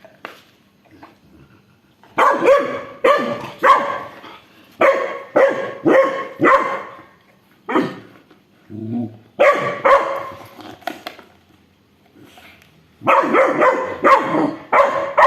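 A dog barking in several volleys of quick, loud barks, with short pauses between the volleys.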